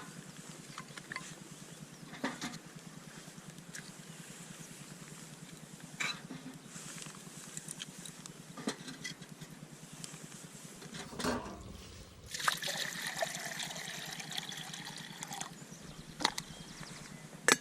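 A stream trickling steadily, with a handful of short sharp clicks spread through it. A few seconds past the middle, a louder hissing rush rises for about three seconds and then stops.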